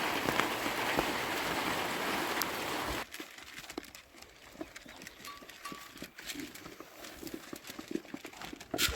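Steady heavy rain hiss that cuts off abruptly about three seconds in, followed by quieter scattered knocks and clicks.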